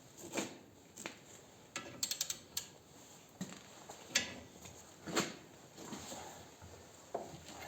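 Metal tool clicks and knocks, with a quick run of ratchet-like clicks about two seconds in, as the bolt of a homemade pulley puller is worked against an engine pulley.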